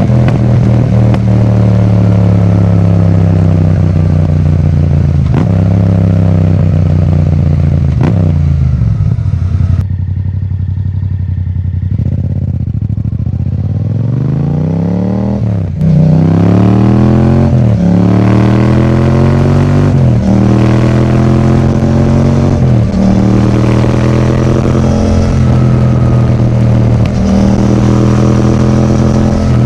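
Yamaha MT-07's parallel-twin engine through an Akrapovic titanium exhaust, pulling up through the gears with the pitch rising and then dropping at each shift. About a third of the way in it eases off and goes quieter, then revs hard again and accelerates through several more gear changes.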